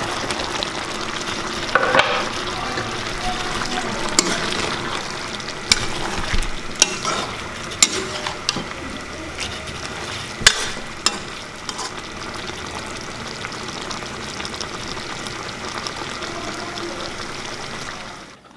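Food sizzling and frying in a pan while being stirred, with sharp clicks and scrapes of a spatula against the pan every second or so through the first half.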